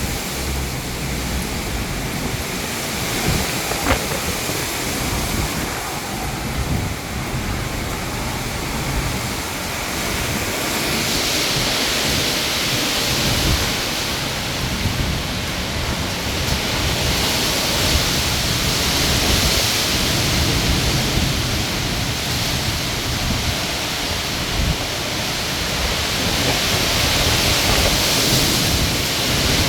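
Strong wind of a haboob dust storm: a steady rushing hiss with irregular low buffeting on the microphone, the hiss swelling louder in waves from about a third of the way in.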